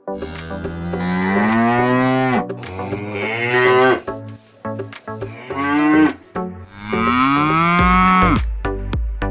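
Cattle mooing: four long, drawn-out moos, each rising and then falling in pitch, over background music.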